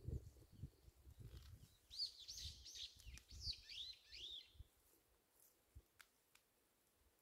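A small songbird singing faintly: a quick run of arched, rising-and-falling chirps starting about two seconds in and lasting under three seconds. Faint low handling noise comes before it.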